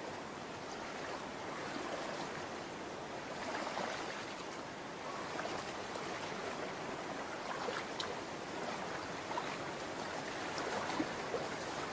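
Shallow stream water running steadily, an even rushing hiss with a few faint brief ticks.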